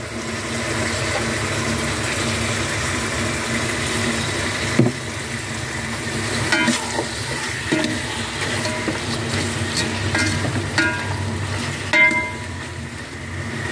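Chicken pieces and chicken liver sizzling in an aluminium pot as they are stirred with a metal ladle, with several short clinks and scrapes of the ladle against the pot from about a third of the way in.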